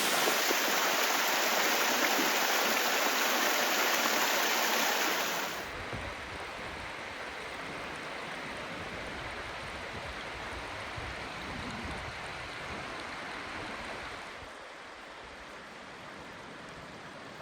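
Steady rush of flowing creek water over rock in the Left Fork. It is loud at first, drops suddenly about five seconds in, and drops a little again near the end.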